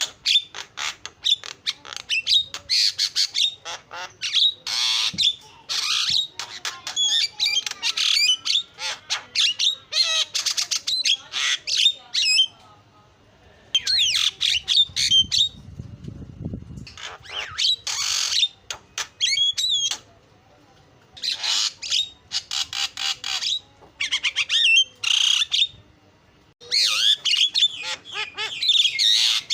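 Javan myna (jalak kebo) singing: quick bursts of rapid, varied notes and short whistled glides, each burst a second or two long, with brief pauses between them.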